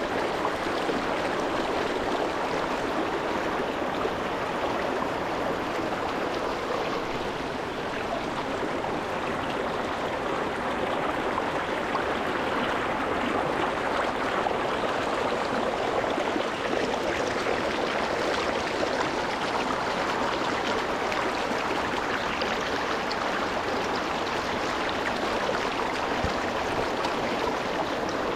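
Small rocky mountain stream flowing and splashing over stones, a steady rushing and burbling.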